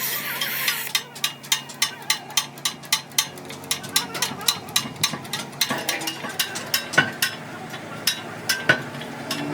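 Steady hissing that stops about a second in, then a hammer striking metal in quick, even blows, about three a second.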